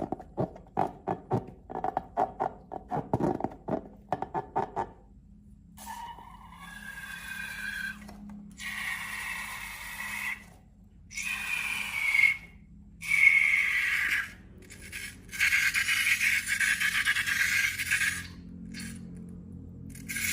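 Close-up handling sounds of slime and a rubber balloon. First comes a run of quick clicking strokes. After about five seconds it turns into a string of scraping, squeaky rubbing passes with short pauses between them.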